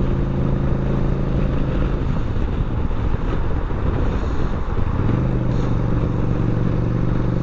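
Yamaha Bolt's air-cooled V-twin engine running while riding, with wind noise on the microphone. Its steady note breaks up between about two and five seconds in, then settles back to a steady note.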